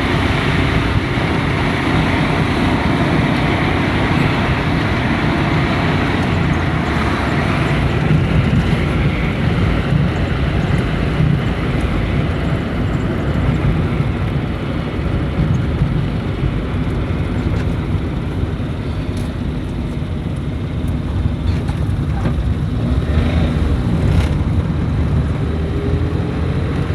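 A moving road vehicle's steady running noise, engine and wind rumble heard from on board, with a few faint clicks in the second half.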